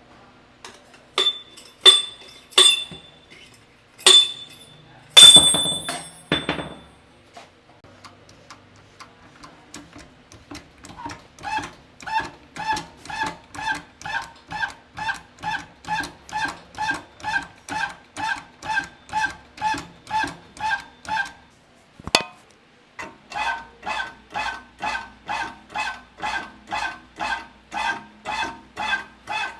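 Hammer blows ringing on metal: a few loud, separate strikes at first. After a pause comes a long run of even, lighter taps, about two to three a second.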